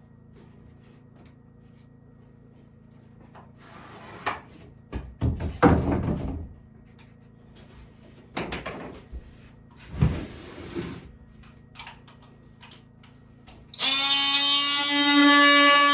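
A few knocks and rubbing sounds of something being handled, in two short spells. Music with long held notes starts about two seconds before the end.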